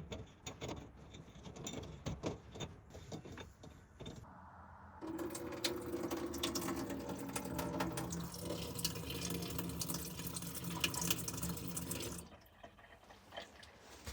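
Light clicks of fittings being handled, then water running in a steady stream from about five seconds in, stopping suddenly about seven seconds later.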